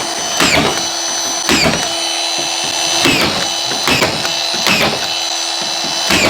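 Cordless drill-driver running continuously, driving screws into timber framing to pull a bowed section of the ceiling straight. Its motor pitch dips again and again, roughly once a second, as the screw bites and the trigger is eased.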